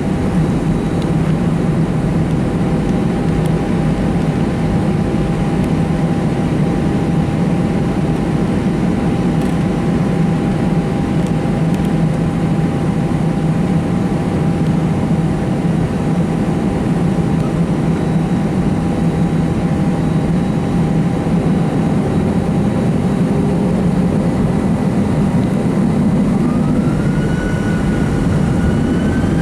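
Steady cabin noise of an Airbus A319's CFM56 jet engines running at low power. About 26 s in, a rising whine begins as the engines spool up toward takeoff thrust.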